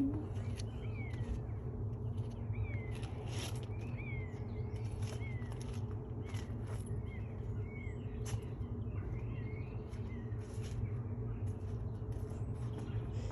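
Short, repeated bird chirps, each a quick curved note, over a steady low rumbling hum.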